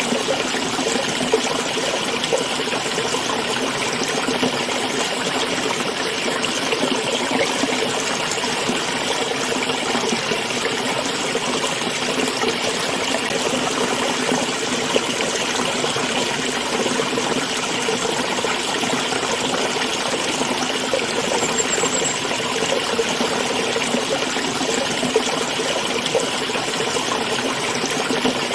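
Small stream flowing and trickling steadily.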